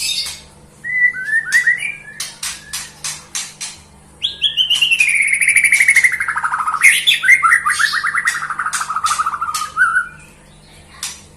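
White-rumped shama singing: a run of sharp clicking notes and short whistles, then a loud, rapidly trilled phrase of about six seconds that slides down in pitch and lifts again at its end.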